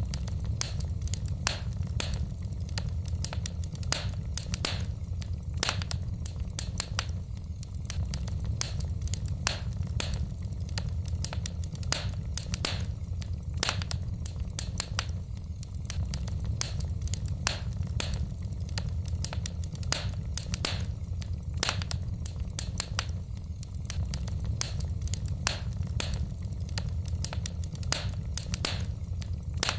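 Wood fire burning in a fireplace: logs crackling and popping in irregular sharp snaps, several a second, over a steady low rumble.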